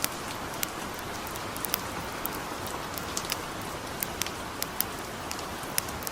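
Light rain falling in a steady hiss, mixed with a campfire's irregular crackles, about a dozen sharp pops.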